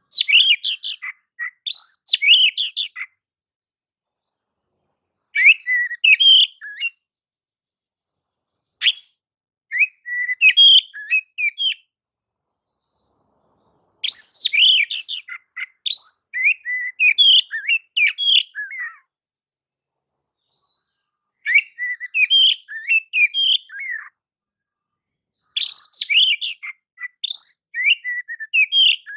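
Oriental magpie-robin (kacer) singing clear, varied phrases of quick whistles and chirps, in about seven bursts of one to five seconds with pauses between. This is a lure song used to start caged kacer singing.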